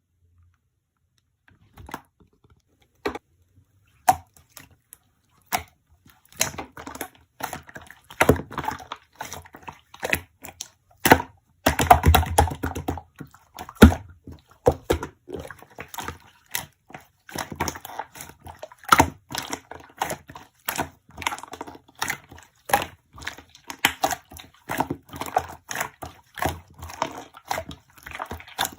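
A run of sharp, irregular clicks and taps, sparse at first and coming thick and fast from about six seconds in.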